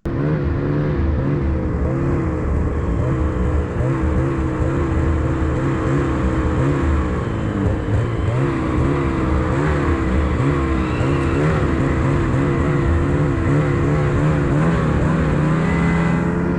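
Snowmobile engine running under way, its pitch rising and falling with the throttle, settling to a steadier note near the end.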